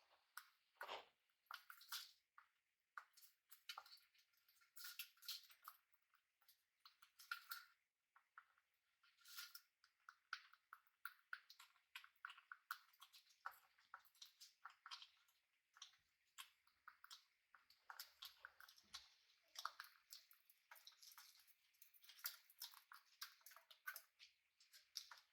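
Faint, irregular clicking and crunching of small parrots husking and chewing seed, a few quick cracks each second with short pauses.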